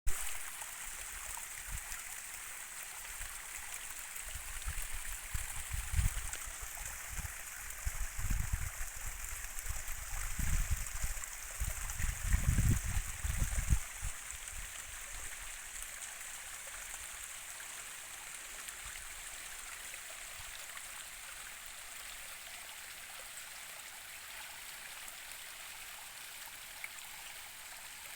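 Steady rush of a flowing stream. Through the middle, a run of low, muffled rumbling bumps rises above it, then dies away.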